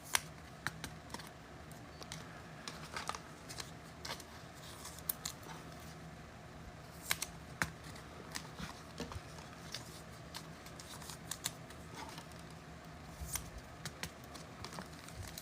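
Faint, scattered clicks and light taps of trading cards being handled and sorted on a table, over a steady low hum.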